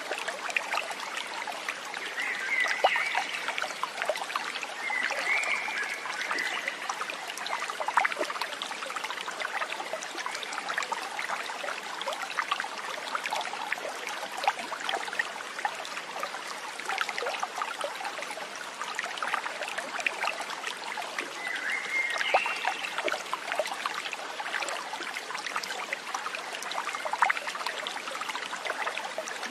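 A small stream trickling and splashing steadily, with three brief animal calls over the water.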